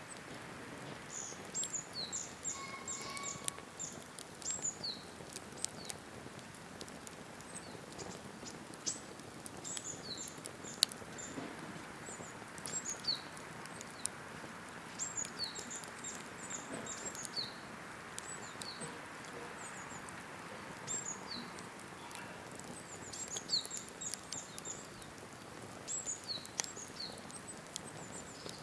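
Cedar-firewood campfire crackling with scattered sharp pops, one much louder pop about eleven seconds in, under a steady soft hiss. Small birds chirp over it throughout in quick, high, falling notes.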